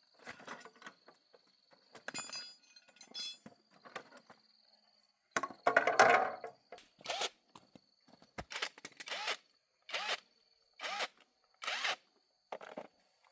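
Irregular knocks, scrapes and clatters of hands-on work with tools, coming about once a second in the second half, some ringing briefly, over a steady high insect trill such as a cricket.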